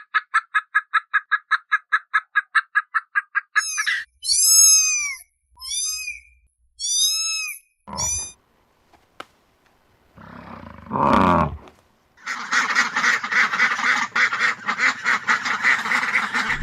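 Animal calls in succession: a fast, even chatter of about eight pulses a second, then four separate arched honk-like calls, and from about twelve seconds in a dense, continuous chorus of calls.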